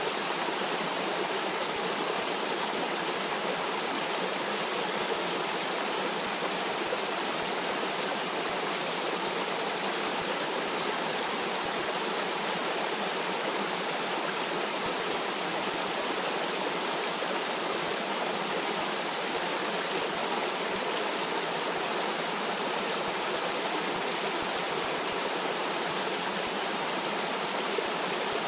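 A stream of water flowing in a steady, even rush that does not change.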